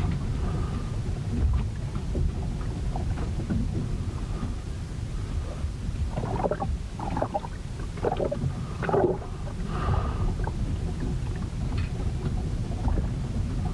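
Storm sounds recorded aboard a wooden ship: a steady low rumble of wind and waves buffeting the hull. A run of short, sharper mid-pitched sounds comes between about six and nine seconds in.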